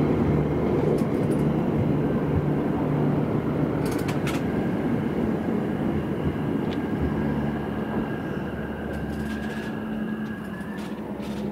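Electric multiple-unit train running along the platform, a steady rumble of wheels on rail with a faint whine, slowly fading as it draws away. A few sharp clicks stand out about four seconds in.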